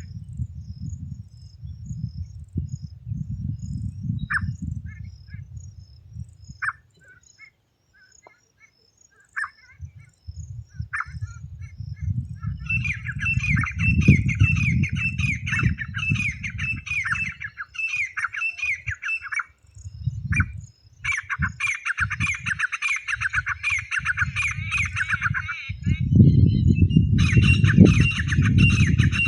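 Teetar (francolin) calls of the kind used to call the birds in: a few single short calls at first, then from about twelve seconds in, long runs of fast, harsh, repeated calls with two short breaks. A low rumbling noise runs underneath.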